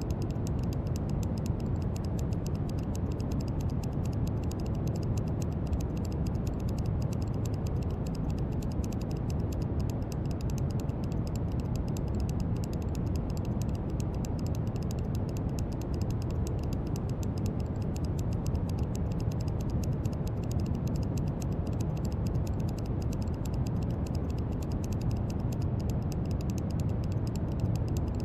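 Brown noise: a steady, deep hiss with most of its weight in the low end, unchanging throughout.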